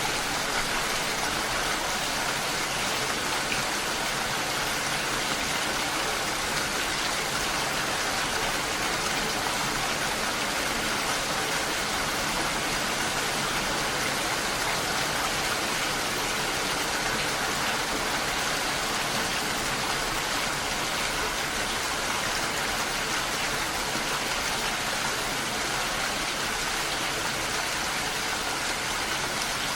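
Steady rain falling, an even hiss with no breaks or single louder drops.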